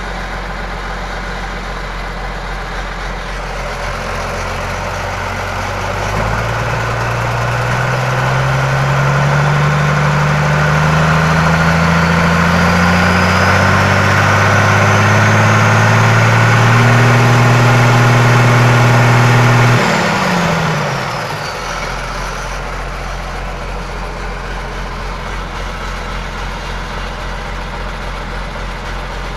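John Deere 3650 tractor's diesel engine idling, then revved up gradually over about fifteen seconds with a faint high whistle rising alongside, held briefly at high revs, and dropped back to idle about twenty seconds in.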